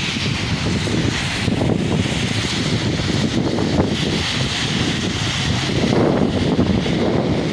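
Heavy rain falling as a steady hiss, with wind buffeting the microphone in low gusts.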